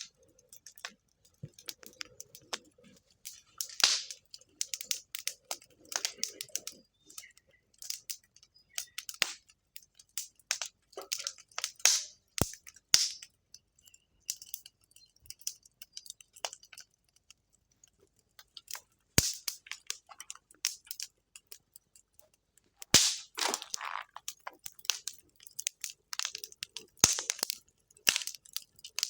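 Wood fire crackling, with irregular clusters of snaps and a handful of sharper, louder pops spread through.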